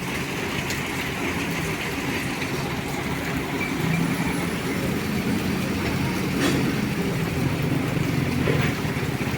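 A vehicle's engine running steadily with an even hiss of road noise, and a few faint clicks.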